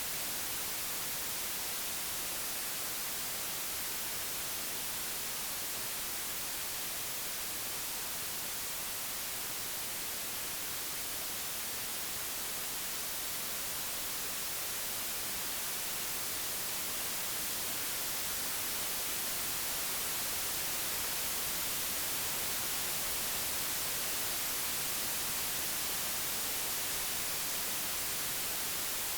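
Computer-generated white noise: a steady, even hiss, brightest in the high frequencies, with no tones or breaks and a slight swell in level in the second half.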